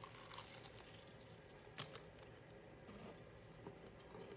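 Faint crunch of a bite into a crispy fried chicken drumstick, then quiet chewing, with one sharp click a little under two seconds in.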